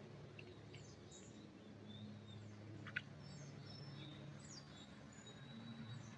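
Faint, scattered bird chirps and short whistled calls over a low steady hum, with one sharp click about halfway through.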